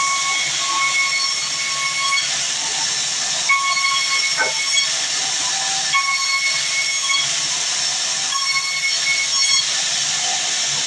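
Sawmill saw running through a big log: a steady high hiss with a whine that rises in spells of about a second, coming back roughly every two and a half seconds.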